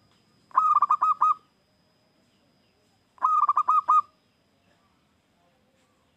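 Zebra dove (perkutut) singing: two phrases of quick, staccato cooing notes, one about half a second in and one just past three seconds.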